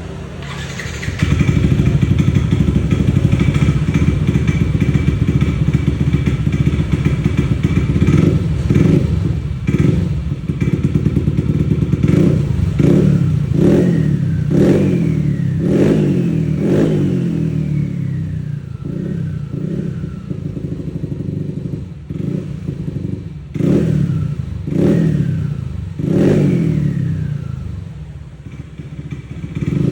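Yamaha NMAX scooter engine bored up to 63 mm. It comes in strongly about a second in and runs steadily for several seconds, then is revved in many short throttle blips, each falling back, with a whine that slides down in pitch after several of them.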